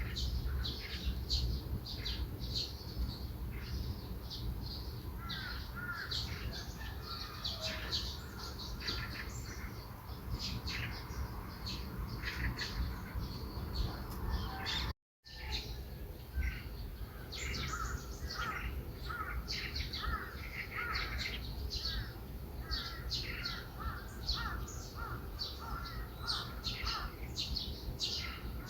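Morning birdsong: many small birds chirping and tweeting in quick, overlapping short calls, over a steady low background rumble. The sound drops out completely for a moment about halfway through.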